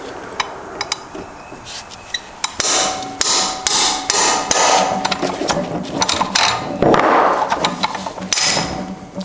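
Hammer striking a steel pin punch to drive out the roll pin that holds a Subaru six-speed manual transmission's shift mechanism, metal on metal. A few light taps come first, then from about two and a half seconds in a rapid run of hard blows with a ringing note.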